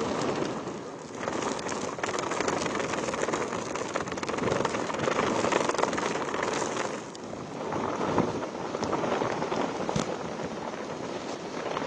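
Cyclone storm noise: gusting wind and heavy rain, swelling and easing every few seconds.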